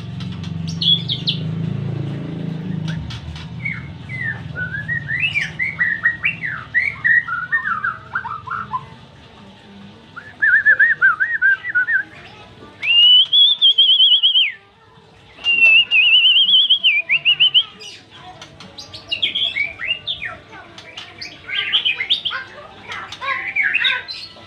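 White-rumped shama (murai batu) singing a varied song. It gives runs of quick falling notes, then a fast trill, then two long clear whistles about two seconds each, the second wavering, and ends with rapid mixed chirps and whistles.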